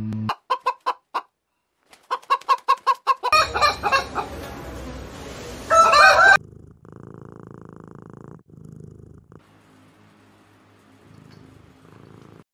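Chickens clucking in quick runs of short notes, building to a loud squawk about six seconds in. A quieter, low steady sound follows.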